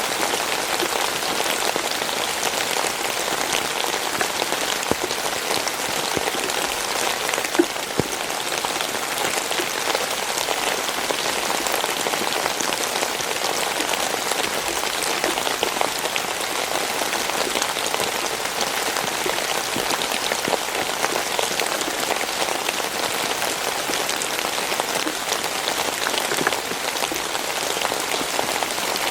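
Steady rain falling on a surface, a constant patter of many small drops, with a few slightly louder single drops about seven to eight seconds in.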